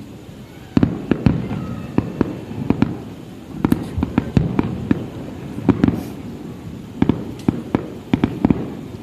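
Fireworks display: aerial shells bursting in an irregular run of sharp bangs, often several in quick succession, each trailing off in a low rumble.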